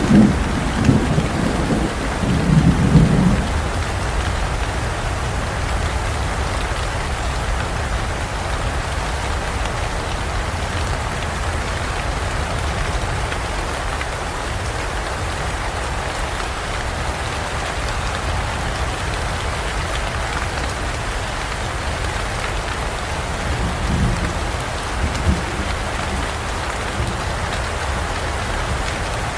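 Steady rain falling in a forest, with low rumbles of thunder in the first few seconds and again briefly about 24 seconds in.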